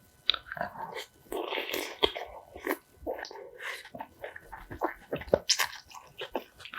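A person eating close to the microphone: a noisy, wet stretch in the first two seconds, then chewing with many short, crisp clicks and crunches of food in the mouth.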